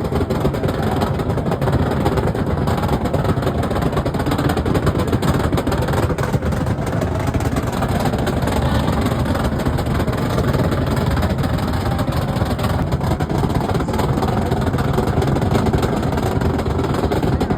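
Car engine running loudly and steadily, with no clear rises or drops in pitch.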